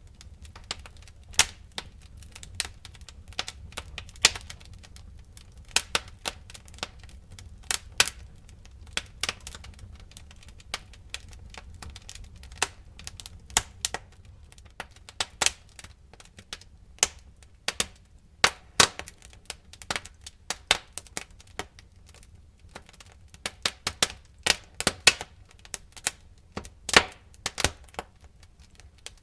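Fire crackling: irregular sharp pops and snaps over a low steady rumble, coming thicker and faster in clusters after about the middle and again near the end.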